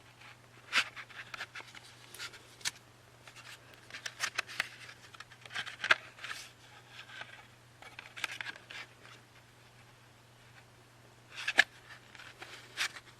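Packaging and discs being handled: scattered sharp clicks and taps with short bursts of rustling, over a steady low hum.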